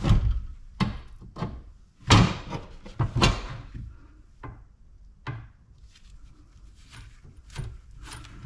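Scrap metal parts knocking and clanking as they are handled and pulled apart, a scattered run of sharp knocks. The loudest two, about two and three seconds in, ring briefly.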